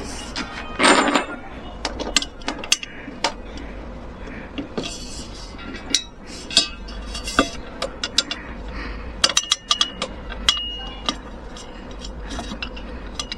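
Small hard objects, metal among them, being handled: many irregular sharp clicks and light clinks, with a louder rattling scrape about a second in.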